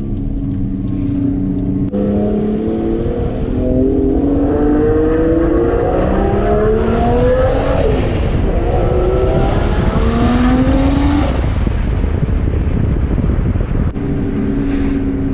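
Toyota JZX100 Mark II's single-turbo 1JZ inline-six accelerating, heard from inside the cabin. The exhaust note rises for several seconds and dips at a gear change about eight seconds in. It climbs again and drops back to a steady cruise about eleven seconds in.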